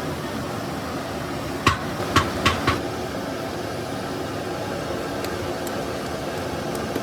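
Four sharp knocks in quick succession, like tool strikes, about two seconds in, over a steady mechanical hum.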